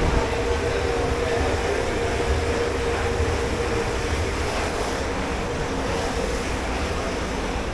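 Steady running noise of commercial dish-pit machinery: a low rumble under a constant hum, with a wash of water-like hiss.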